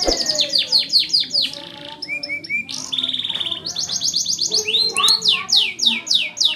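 Domestic canary in full song. It sings quick runs of repeated downward-sweeping notes, a brief fast rolling trill about halfway through, and then slower, wider swooping notes toward the end.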